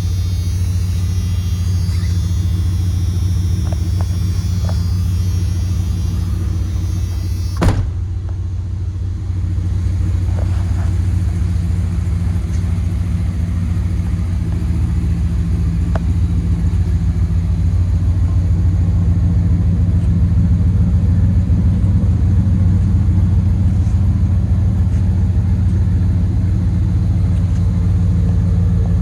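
1996 Dodge Ram pickup's engine running steadily with a low rumble. There is one sharp click about eight seconds in, and the engine grows slightly louder in the second half.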